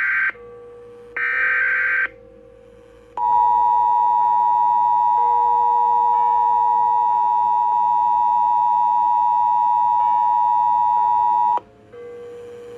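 Emergency Alert System broadcast tones. Two short, screechy data bursts of the alert header come first. Then the steady two-tone attention signal is held for about eight seconds and cuts off suddenly, signalling the severe thunderstorm warning that follows.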